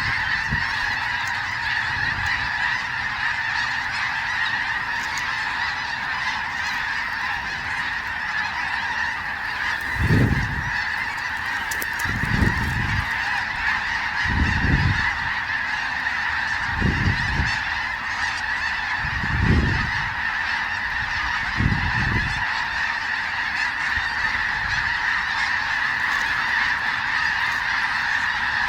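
A large flock of snow geese calling continuously, a dense, steady din of honks. Between about 10 and 22 seconds in, six low thumps come at roughly two-second intervals.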